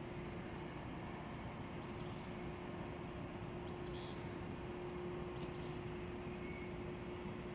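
A bird giving three short chirps about two seconds apart, over a steady low hum and a constant background rush.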